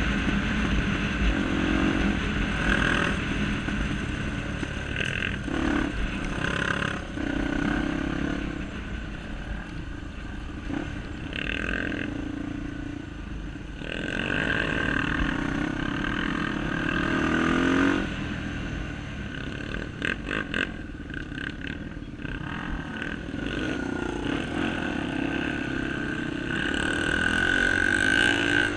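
Honda Tornado 250 single-cylinder trail motorcycle engines being ridden in mud, revving up and down repeatedly, with the pitch rising and falling.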